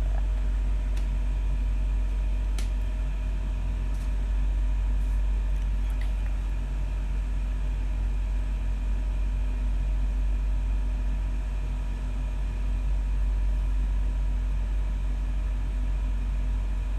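Steady low hum with a few faint higher steady tones, and a few faint clicks in the first few seconds.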